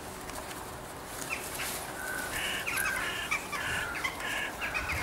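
A bird giving a run of short, harsh, repeated calls, starting about a second in and coming thick and fast from about two seconds in.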